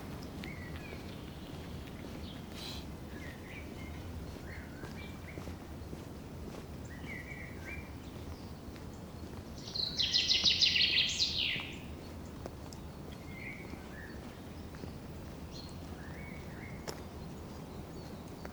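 Forest birds calling: scattered short chirps, then a loud, rapid trill for about two seconds near the middle. Under them runs a steady low background rumble.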